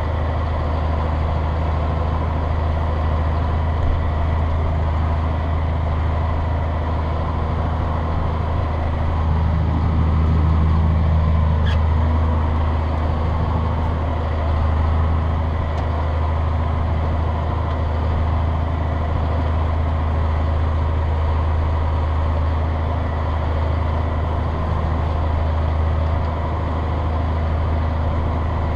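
Steady low mechanical drone with faint constant tones above it, swelling slightly about a third of the way in.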